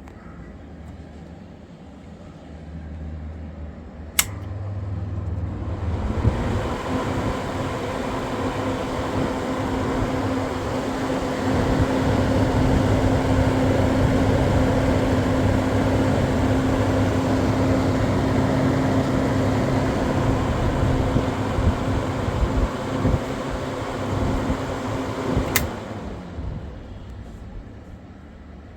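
Electric wall or exhaust fan switched on with a click, running up to speed and then running with a steady motor hum and rushing air; a second click near the end switches it off and it winds down.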